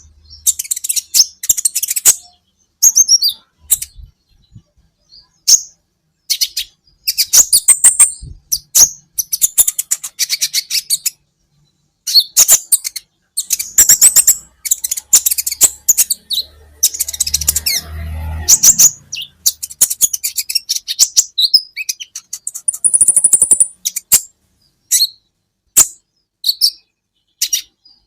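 Kolibri ninja (konin) sunbird singing: rapid, high, clicky chips and short trills in bursts with brief pauses. A faint low rumble sits under the song about two-thirds of the way through.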